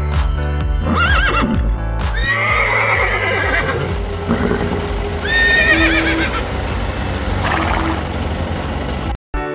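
Horse whinnying several times, each call wavering and gliding in pitch, over steady background music.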